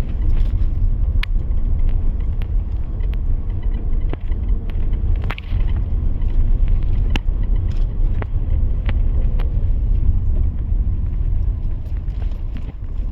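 Steady low rumble with scattered sharp clicks and ticks.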